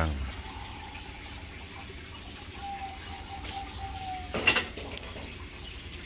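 A few faint, short, high chirps from caged red siskins, with one loud, sharp sound about four and a half seconds in.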